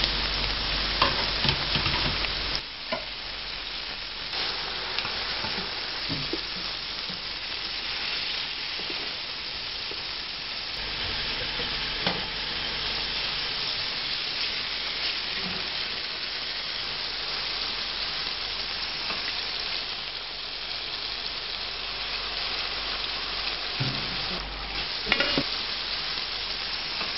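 Onions sizzling as they fry in a pot, with chopped tomatoes being added to them; a steady frying hiss, broken by a few short knocks of a utensil or pot.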